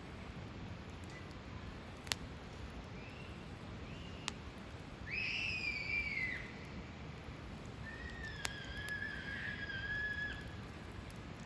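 Hardwood campfire burning with a low steady hiss and three sharp pops, plus whistling from gas or steam jetting out of the burning wood: one rising-and-falling whistle about five seconds in and a longer, steadier one near the end.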